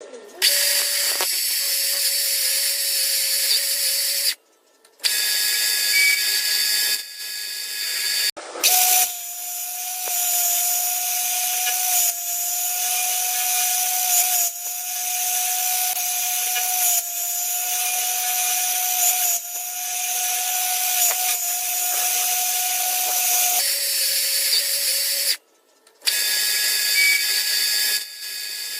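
Machine tool running and cutting metal: a steady whine over a continuous hiss. It breaks off suddenly twice and changes pitch a few times.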